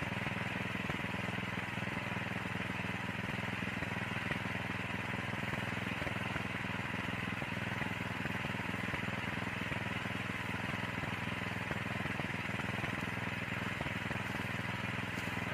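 Small engine of a motorised soil tiller running steadily at a constant speed.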